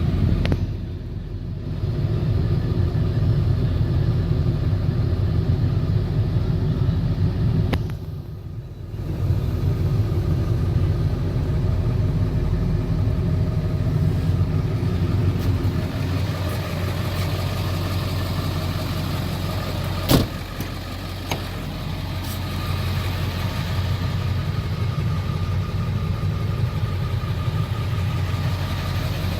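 Ford 7.3 Powerstroke V8 turbo diesel idling steadily. The sound drops away briefly twice, about a second in and again around eight seconds, and there is a sharp click around twenty seconds.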